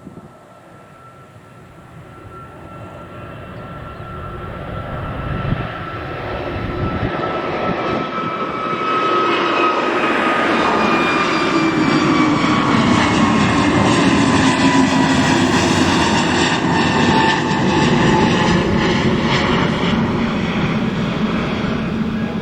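Airbus A321neo jet airliner taking off and passing by: the engine noise grows steadily louder to a peak about two-thirds through, with a whine that slowly falls in pitch as it goes past.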